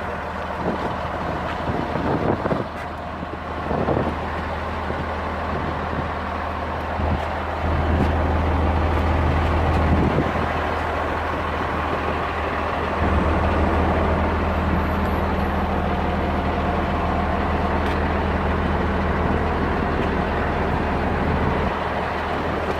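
Diesel engine of a Volvo L220D wheel loader running, with a deep steady drone. It grows louder for a couple of seconds about a third of the way in, then again for a long stretch through the middle to near the end, as the engine is worked harder. A few knocks sound in the first few seconds.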